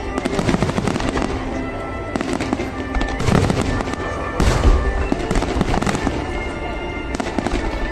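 Aerial fireworks bursting and crackling in rapid succession, with the heaviest booms about three and four and a half seconds in, over music playing.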